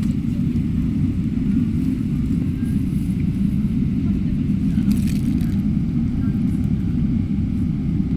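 Steady low rumble of an airplane, holding level with no rise or fall in pitch.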